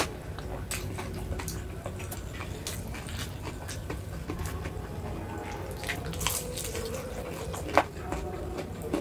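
Close-miked eating: wet chewing and mouth sounds with scattered small clicks, and one sharp click about eight seconds in, over a steady low hum.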